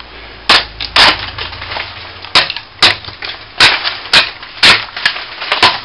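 A hand tool striking and scraping at old plaster, about ten sharp, irregularly spaced knocks and scrapes, as the wall is raked out and chipped back to prepare cracks for patching.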